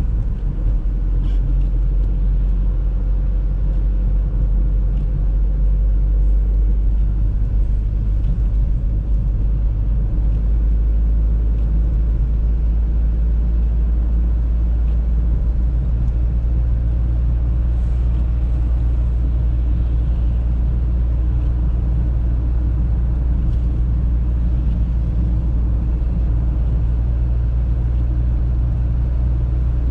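Audi A3 driving at steady speed: a continuous low rumble of engine and road noise, its engine note shifting slightly a few times.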